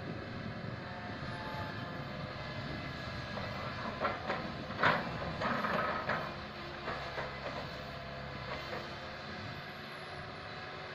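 Komatsu PC160LC excavator's diesel engine running steadily while it loads soil, with a cluster of sharp metallic clanks and scraping about four to six seconds in.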